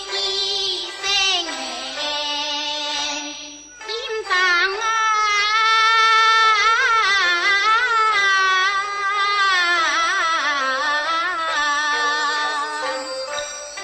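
Teochew opera music. After a short break about four seconds in, a high melody comes in, long-held and wavering with vibrato.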